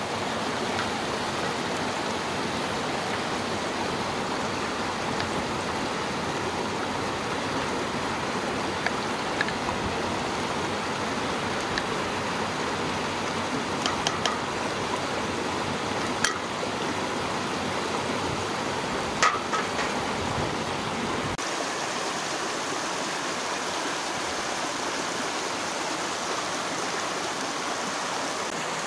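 Chopped herbs sizzling steadily as they fry in a clay pot, with a few light knocks of a wooden spoon stirring them. About two-thirds of the way through, the sound cuts to the steady rush of a stream running over stones.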